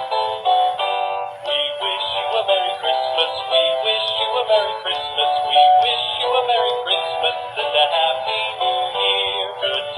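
Hallmark Sing-Along Showman Snowman plush playing its Christmas song with singing through its small built-in speaker. The sound is thin, with no bass.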